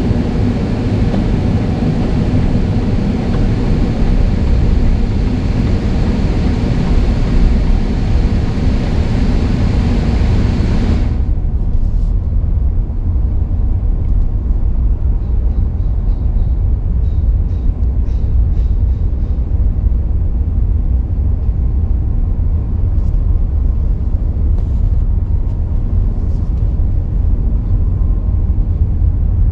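Car driving along a road: a steady low rumble of road and engine noise, with a loud rushing hiss over it that stops abruptly about eleven seconds in.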